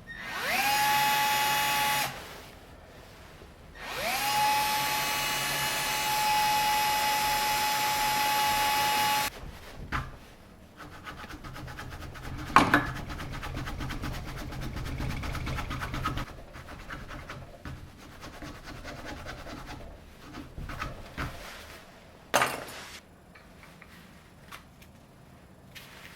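Small electric power tool working wood, run twice: the motor spins up quickly to a steady high whine, first for about two seconds, then for about five. After that come quieter rubbing and handling noises with a couple of sharp clicks.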